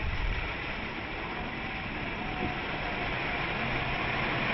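A vehicle driving, with a steady rushing noise of tyres and wind that slowly grows louder.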